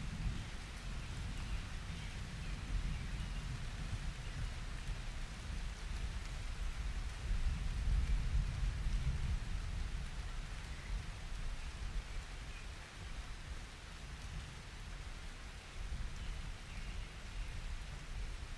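Steady rain with low rolling thunder rumbling underneath, the thunder swelling louder about halfway through.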